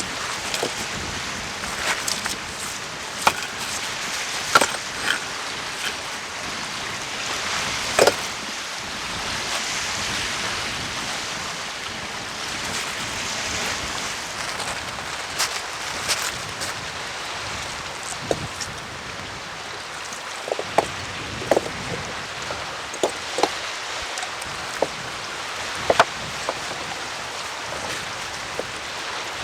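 Steady rain falling, an even hiss, with scattered short sharp taps through it.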